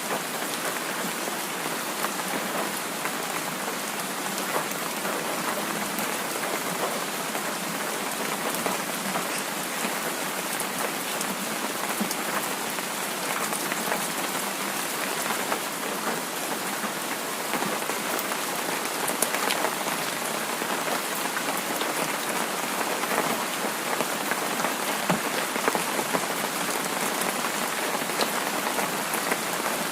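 Heavy rain falling steadily, a constant hiss flecked with many small ticks of individual drops striking close by.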